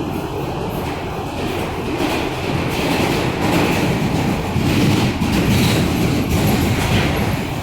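R160A subway train running on the rails, heard from inside the car: steady rumble with wheel clickety-clack over rail joints, getting louder about two seconds in.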